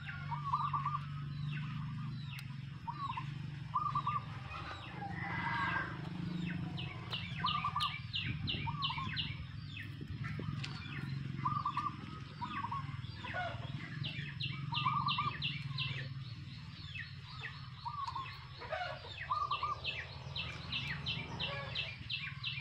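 Birds calling: a short call repeated every second or two, with stretches of fast high-pitched trilling, over a steady low hum.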